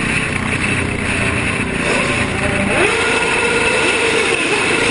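Motorcycle engines running and revving, pitch rising and falling over a loud, continuous background of traffic noise.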